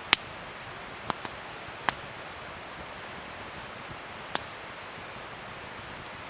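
Wood fire burning with a steady hiss and sharp crackling pops: five pops, the loudest just after the start, three more within the next two seconds, and one more about four seconds in.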